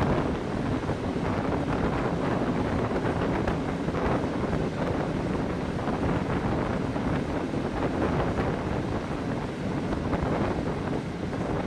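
Passenger train running through a railway tunnel, heard from an open coach window: a steady rumble of wheels on the rails, echoing off the tunnel walls, mixed with wind rushing past the microphone.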